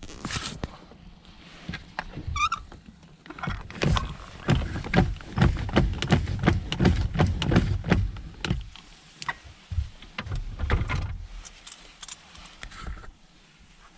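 A rapid run of irregular knocks and clunks, densest from about four to eleven seconds in, with a brief squeak shortly before.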